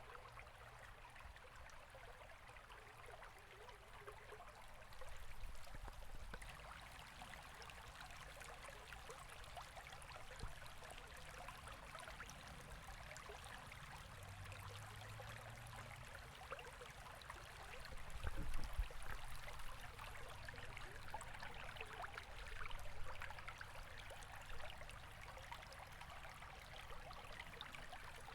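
River water flowing in a steady, even rush, with a few brief deeper low rumbles; the strongest comes about two-thirds of the way through.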